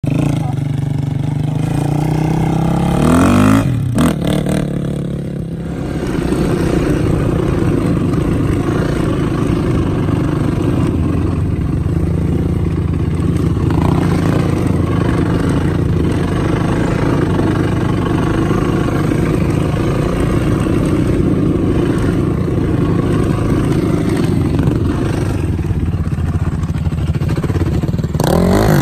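A vehicle engine accelerates, rising in pitch over the first few seconds, then breaks off briefly at about four seconds, as at a gear change. It then runs steadily at speed and starts to rise again near the end.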